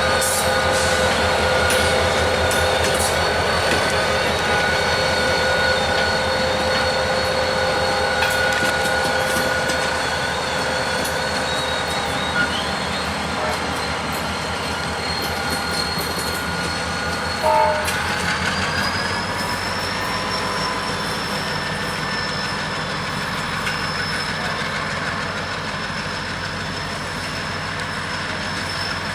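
Diesel locomotives working close by, their engines running with a steady low throb under a high-pitched whine. The whine rises in pitch about 18 seconds in, and there is a brief clank just before.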